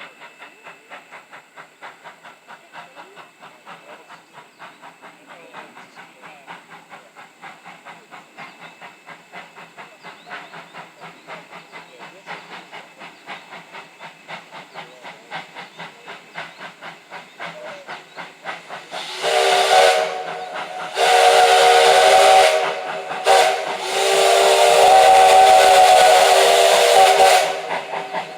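Steam locomotive working with a steady rhythmic beat that grows gradually louder, then sounding its whistle three times near the end: a short blast followed by two long ones.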